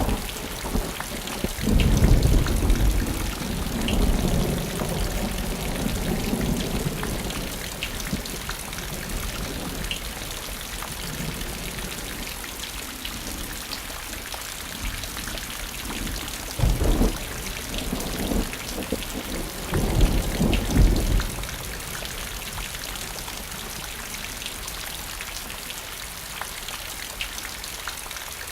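Steady rain falling, with low rolls of thunder: a long rumble a couple of seconds in and two shorter ones past the middle.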